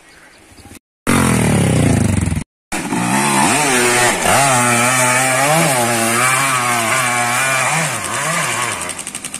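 Dirt bike engine revving hard on a steep dirt hill climb, its pitch swelling and dipping in short blips as the throttle is worked. The sound drops out twice within the first three seconds, and near the end it falls back to a lower, pulsing beat.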